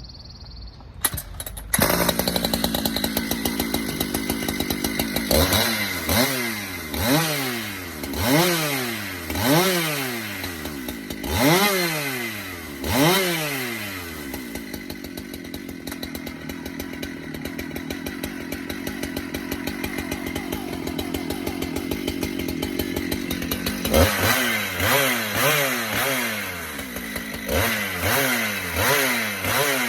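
Husqvarna 395 chainsaw's two-stroke 95cc engine running, its chain freshly sharpened and tightened. It gets loud about two seconds in and is revved up and down over and over. It holds a steady pitch for about ten seconds in the middle, then is revved up and down quickly again near the end.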